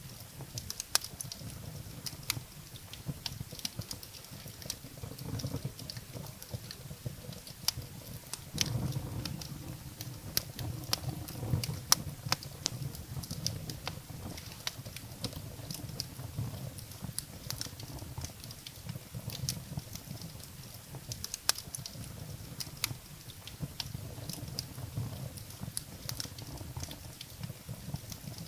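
Wood fire burning in a fireplace: irregular sharp crackles and pops of burning firewood over a low rumble of the flames, which swells for a few seconds near the middle.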